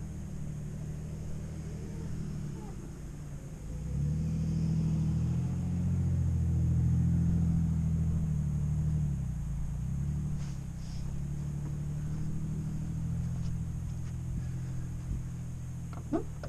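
Jeep Grand Cherokee ZJ engine running low as it creeps over soft sand towing a trailer. It works harder and louder for several seconds from about four seconds in, then settles back. A door clicks open near the end.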